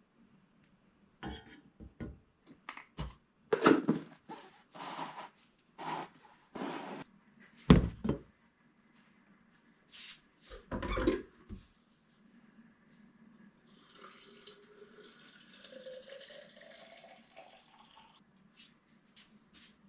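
Irregular knocks and clatters of objects being handled, with two heavy thumps in the middle, then a faint steady hiss.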